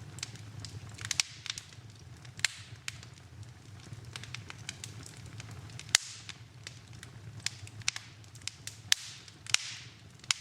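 Wood fire in a fireplace crackling, with sharp pops every second or so, the loudest about six seconds in, over a low steady rush of the flames.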